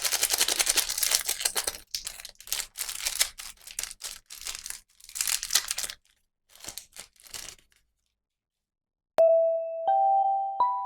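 Plastic toy packaging crinkling and tearing in quick rustles for about six seconds, then a few more brief rustles. After a short silence, a melody of clear chime notes starts near the end and is louder than the rustling.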